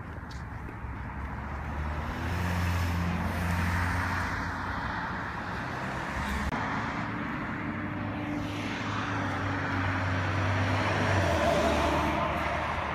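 Road traffic: cars driving past, their engine hum and tyre noise swelling and fading, loudest twice as vehicles go by.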